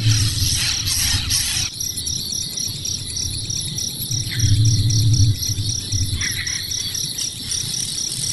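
Insects chirping in a steady, rapid pulsed trill over a low rumble; a denser sound in the first second and a half stops abruptly.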